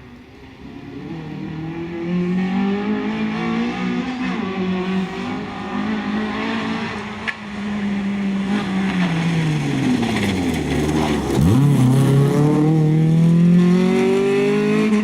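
Honda Civic rally car's engine revving up and down through the gears, growing louder over the first couple of seconds and louder again near the end. About eleven seconds in the revs drop sharply and then climb again.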